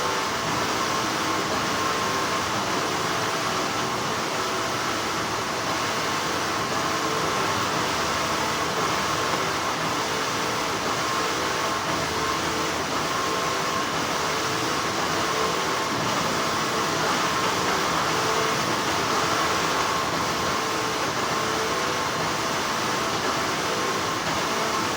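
Textile factory machinery humming steadily, a continuous mechanical drone with a few faint constant tones in it.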